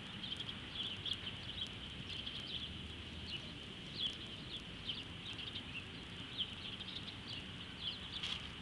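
Small birds chirping over and over in quick short notes, over a steady low background rumble.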